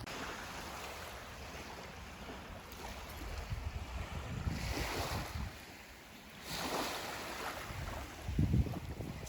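Ocean waves washing onto a beach, swelling twice in the middle, with wind gusting against the microphone.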